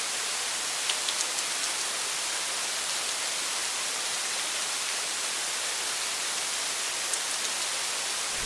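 Steady rain falling, an even hiss with a few sharper drop ticks about a second in and again near the end.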